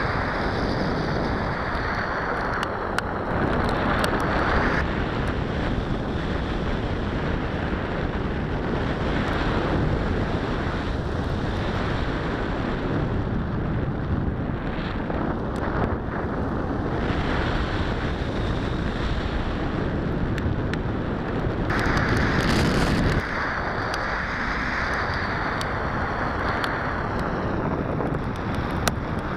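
Air rushing over the microphone of a small action camera carried on a radio-controlled sailplane in flight: a steady, dense roar of wind noise. Faint whistling tones rise and fall at the start and again near the end, and the noise changes abruptly a few times.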